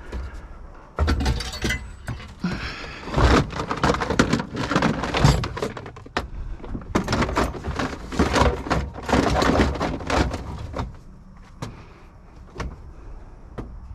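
Clattering, knocking and thudding of hard objects being shifted and rearranged in a pickup truck's load, in a busy run of many impacts that eases off near the end.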